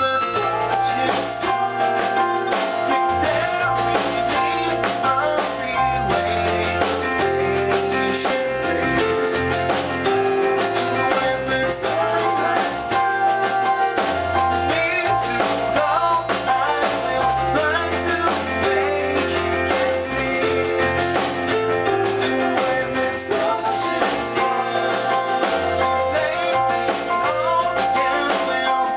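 Rock band playing a song at full volume: drum kit, bass guitar and electric guitar, with sustained keyboard notes.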